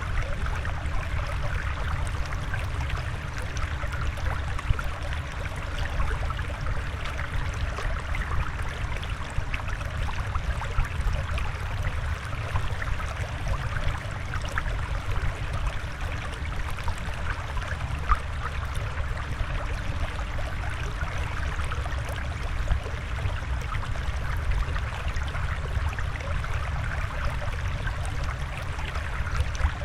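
Steady flowing, trickling water: an even rush with many small splashes and gurgles, and no change in level.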